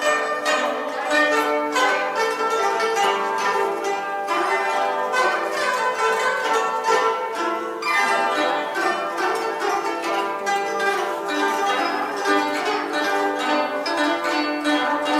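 Ensemble of guzhengs (Chinese plucked zithers) playing together: a dense texture of plucked notes with interweaving melodic lines. A new phrase starts with a strong plucked attack about eight seconds in.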